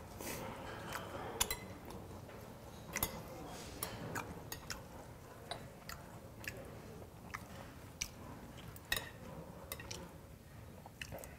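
Close-miked chewing of a lettuce-leaf bossam wrap of tofu skin and pork, with scattered sharp clicks and taps of metal chopsticks against the dishes.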